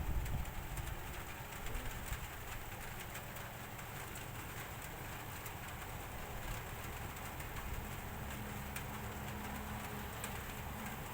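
Low rumble of distant thunder, dying away over the first couple of seconds and then holding as a steady low rumble.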